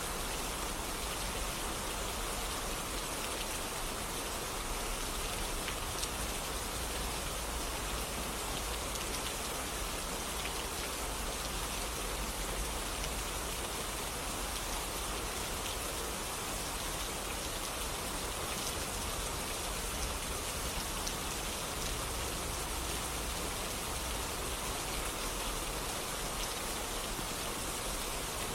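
Steady rain falling, an even hiss of many drops with a few distinct drop ticks.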